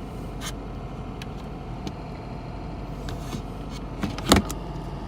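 Steady low hum of the idling car heard inside the cabin, with a handful of short plastic clicks and knocks as electrical connectors are worked loose from the center console. The loudest, sharpest click comes about four seconds in.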